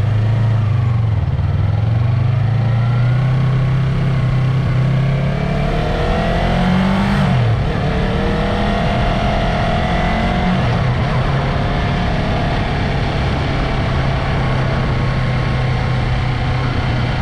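Yamaha MT-03's parallel-twin engine running at low, steady revs while riding. About six seconds in, the pitch climbs for a second or so, then drops sharply and settles back to a steady note.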